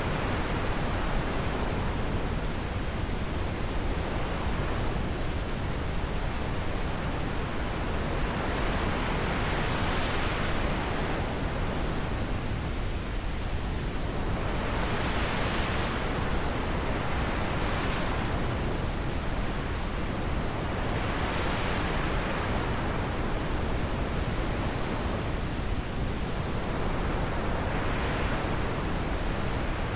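Wind blowing through trees, a steady rushing with gusts that swell and fade every few seconds.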